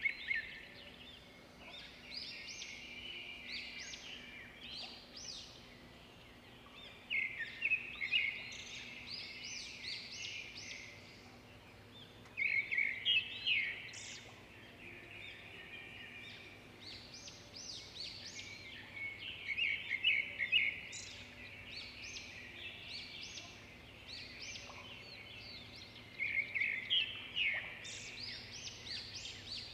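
Birds chirping in bursts of quick twittering calls every five to seven seconds, over a faint steady hum.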